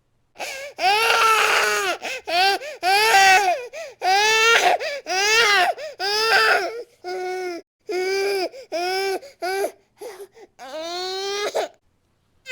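Baby crying hard in repeated wails, each cry rising and falling in pitch, with short catches of breath between them. Quicker short sobs come about two-thirds of the way through.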